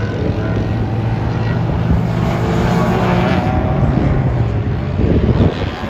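Race car engines running on a circuit: a steady engine drone throughout, with a car's engine note rising near the end as it accelerates.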